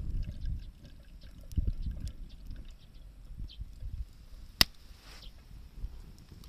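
Wood campfire burning, with scattered faint crackles and one sharp pop a little past halfway, over a low uneven rumble.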